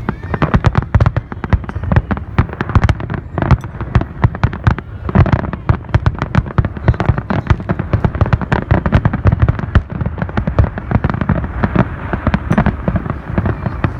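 Fireworks going off in a dense, irregular barrage of sharp bangs and cracks, several a second, with no let-up.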